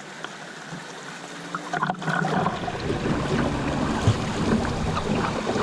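River water splashing and rushing around a kayak on a fast, flood-swollen river, growing louder about two seconds in.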